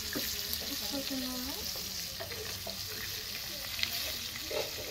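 Chicken pieces deep-frying in hot oil in a wide pan over a wood fire: a steady sizzle with scattered crackles and pops.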